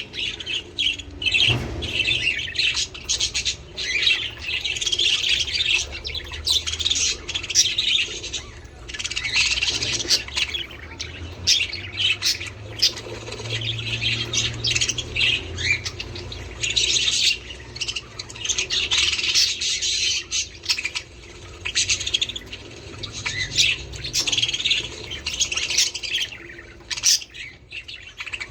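Budgerigars chattering and chirping, with dense, overlapping, rapid warbles and squawks.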